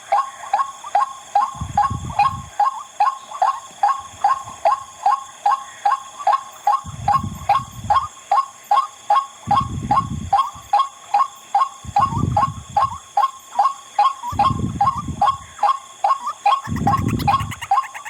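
White-breasted waterhen's 'wak-wak' call: a sharp note repeated about two to three times a second without a break. Under it, a low rumble of about a second comes every two to three seconds.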